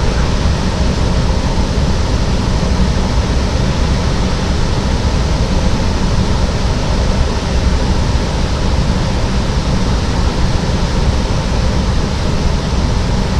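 Steady, loud cabin noise of a Cessna 208 Caravan, its single PT6A turboprop engine and propeller running at a constant setting, heaviest in the low end.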